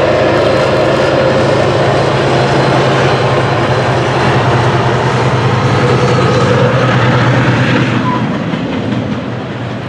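Freight train passing close by: two diesel locomotives, a GE ES44AH and an EMD GP38-2, running with a steady low drone over the rumble of the rolling cars. The engine sound fades near the end as the locomotives move away and the freight cars keep rolling past.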